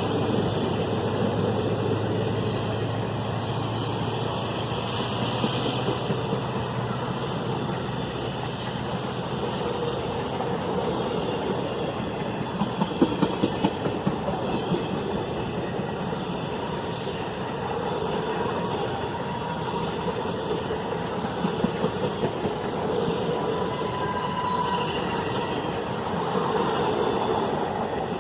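Diesel-hauled Indian express train running on the line, with a continuous rumble. A low engine hum fades out over the first several seconds, and a quick run of wheel clicks over rail joints comes about halfway through, with a few more later on.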